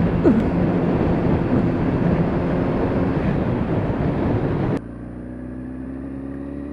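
Motorcycle on the move: loud wind rush over the engine, then a sudden cut about five seconds in to a quieter, steady engine note that slowly rises in pitch as the bike gathers speed.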